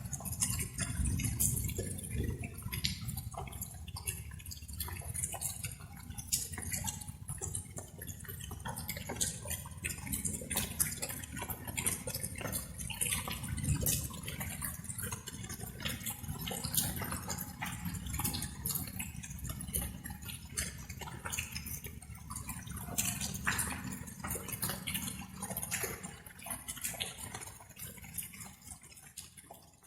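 Light rain falling, with many separate drops dripping and tapping in an irregular patter over a low steady rumble.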